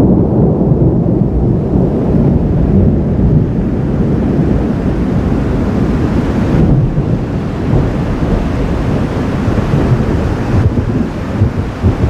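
Thunder rumbling: a long, deep, continuous roll.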